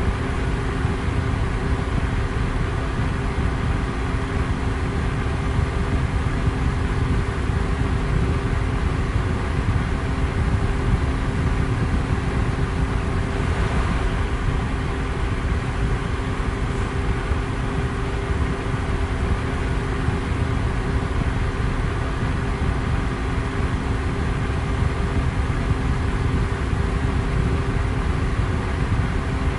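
Electric fan running steadily: an even rush of moving air, heaviest in the low end, with a faint steady motor hum underneath.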